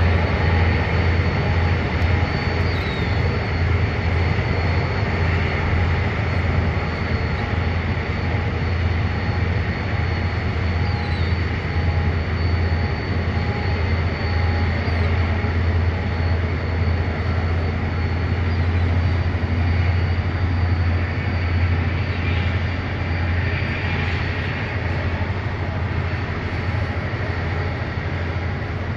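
Engines of a 40 m Austal passenger ferry running steadily under way: a loud, even, deep drone with a thin high whine above it.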